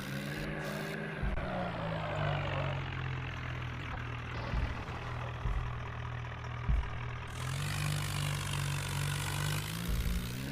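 A vehicle engine running at a steady speed, its pitch dipping slightly about a second in and rising again later, with a few low knocks.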